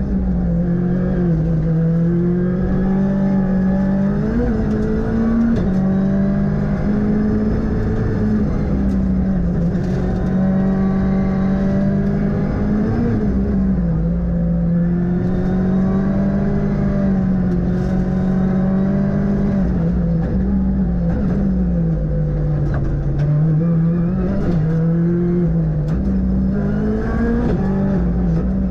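Ford Fiesta R5 rally car's turbocharged four-cylinder engine heard from inside the cabin at racing speed. Its pitch rises and drops again and again as the driver works the throttle and gears through the stage, with short clicks scattered through it.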